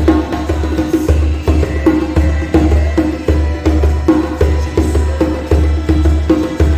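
Djembe played by hand in a steady, repeating rhythm, deep bass thuds mixed with higher open tone strokes.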